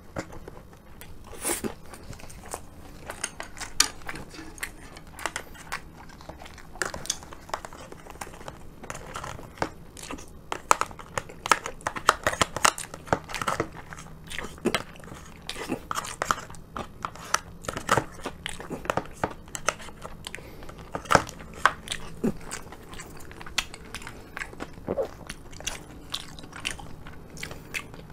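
Close-miked chewing and mouth sounds, with many short clicks and scrapes of chopsticks and a plastic spoon against a plastic takeaway bento box as the last of the curry is scooped up.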